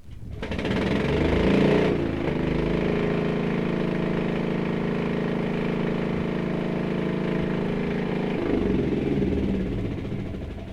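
M48 medium tank engine starting up: the sound builds over about two seconds, then runs at a steady, even pitch, and turns rougher about eight and a half seconds in.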